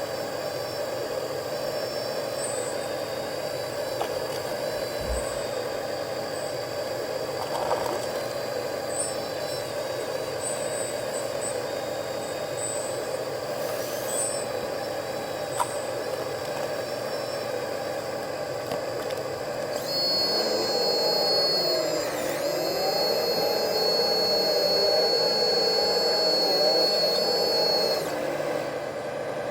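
Radio-controlled model excavators running: a steady hydraulic pump and motor whine with small high chirps. About two-thirds of the way through it grows louder for several seconds, its pitch sagging and rising as the hydraulics work under load, then it drops back shortly before the end.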